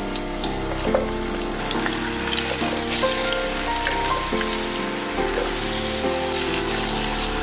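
Food frying in a pan: a steady sizzle with small crackles, under background instrumental music.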